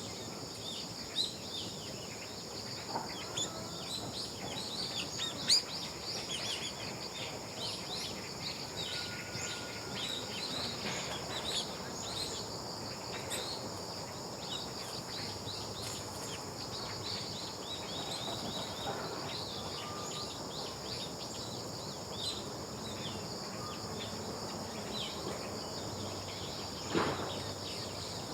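Birds chirping with many short, quick calls over a steady high-pitched insect hum, with a sharp click about five seconds in and a brief louder sound near the end.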